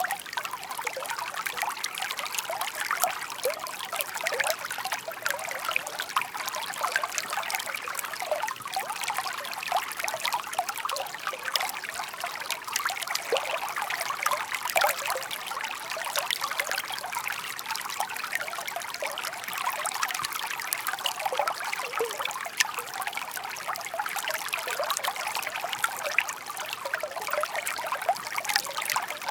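Shallow brook babbling and trickling steadily, a dense splashing patter of small ripples over stones.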